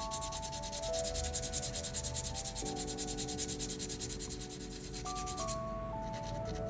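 Quick back-and-forth sanding strokes, several a second, that stop about five and a half seconds in, over background music with held notes.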